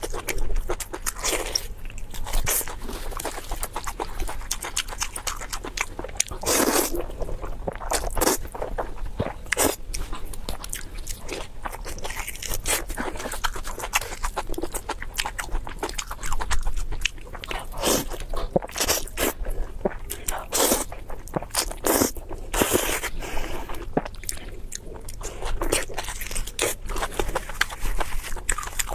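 Close-miked eating: chewing and crunching food, with many irregular bites and mouth clicks and a few louder, longer crunches.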